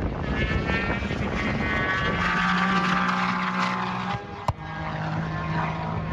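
Twin-turbo Porsche 997 GT3 flat-six running while being tuned, sounding angry. It runs rough and uneven at first, then settles to a steady note. A single sharp crack comes about four and a half seconds in.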